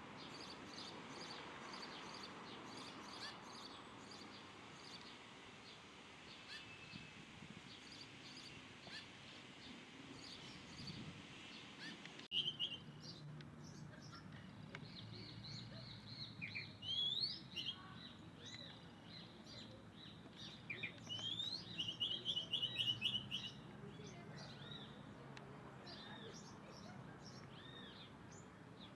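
Wild birds chirping and calling over low background noise. About halfway through there is an abrupt break, and louder calls follow, including a rapid run of chirps about two-thirds of the way in.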